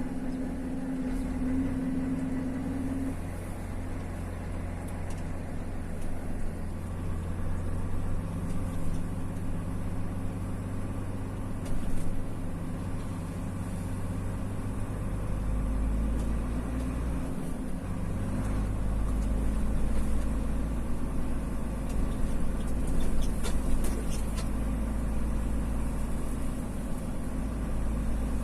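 Vehicle engine and road noise heard from inside the cabin while driving. The engine hum runs steadily, and its low rumble grows heavier about halfway through.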